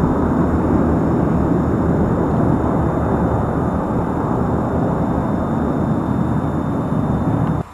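Antonov An-22's four contra-rotating turboprops making a continuous low hum as the aircraft arrives. The hum fades slowly and then stops abruptly near the end.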